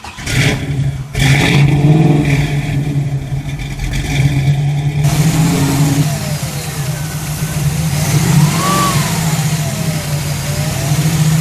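1966 Ford Mustang Fastback's engine running steadily, with its pitch rising and falling as it is revved several times in the second half; the sound changes abruptly about five seconds in, with more hiss.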